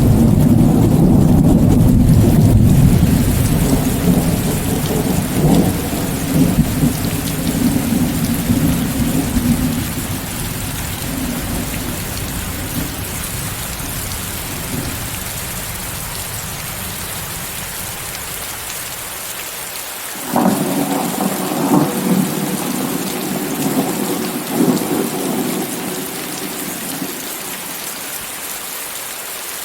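Heavy rain falling steadily with thunder, mixed with white noise. A long rumble of thunder fades away over the first ten seconds or so. About twenty seconds in, a new peal breaks in suddenly and rumbles on for several seconds.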